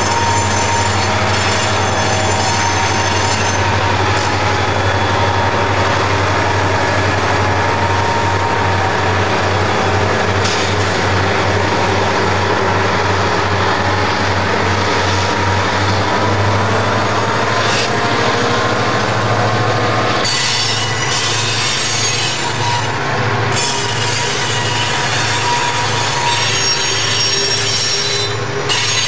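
Southern Pacific diesel freight locomotives passing close by under power, their engines making a steady, pulsing low drone with a thin high whine above. From about twenty seconds in the freight cars roll past with rail clatter and high-pitched wheel squeal on the curve.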